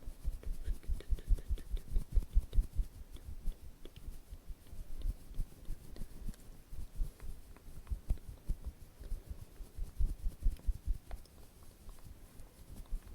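Close-miked ASMR tapping and brushing: many soft, quick, uneven thumps right at the microphone, with a few faint clicks among them.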